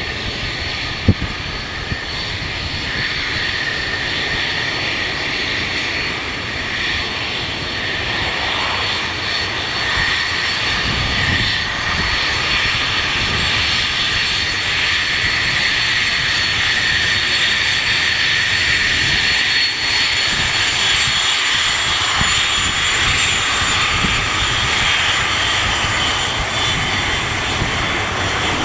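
Airliner engines running with a steady high whine, the noise growing gradually louder, while gusts of wind rumble on the microphone.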